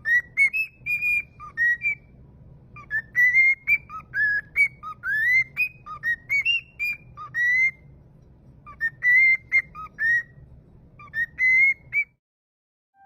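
A cockatiel whistling: phrases of short, clear notes, many sliding upward, with brief pauses between phrases. It stops about a second before the end.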